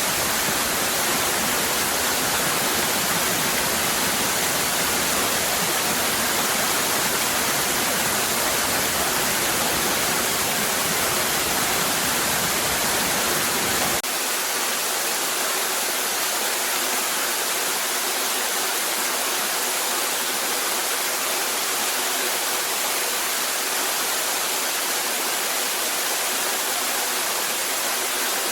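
Cascading waterfall: a steady, full rush of falling water. About halfway through, the deep rumble underneath drops out abruptly, leaving a lighter, thinner rush.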